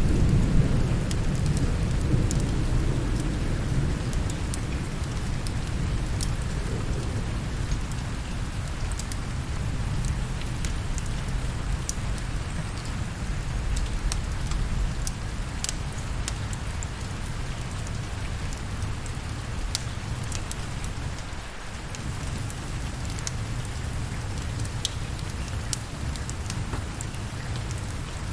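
Steady rain, with a low rumble of thunder dying away over the first several seconds. Scattered sharp crackles, fitting a wood fire, run throughout.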